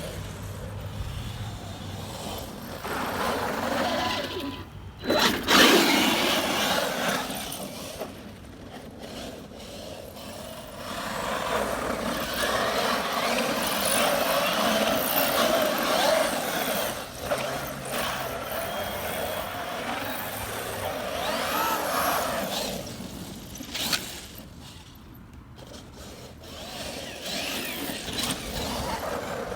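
Traxxas X-Maxx RC monster truck with a Hobbywing 1100kv brushless motor being driven in bursts: motor whine rising and falling with the throttle over tyres scrabbling on dirt, with a sharp loud hit about five and a half seconds in.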